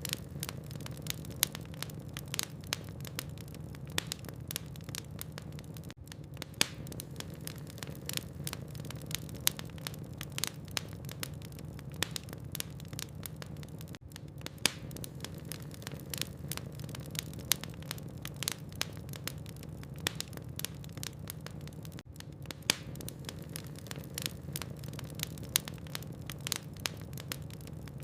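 Logs burning in a fireplace: irregular sharp crackles and pops, several a second, over a steady low hum. The level dips briefly about every eight seconds.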